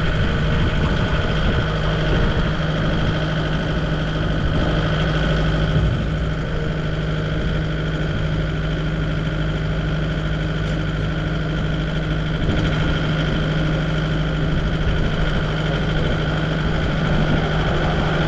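An engine idling steadily, a constant hum that neither revs nor stops.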